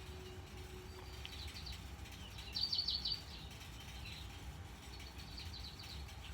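Birds chirping in quick runs of high notes, the loudest run of about six chirps near the middle and another softer run near the end, over a low steady rumble of outdoor background noise. A faint steady low tone fades out about a second in.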